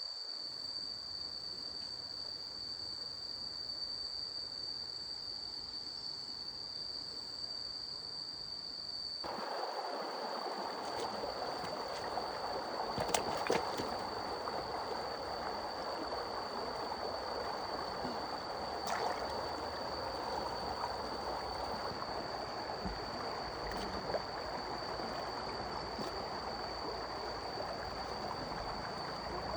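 Water running in a stream, louder after a cut about nine seconds in, under a steady high-pitched insect drone. A few sharp clicks come in the middle.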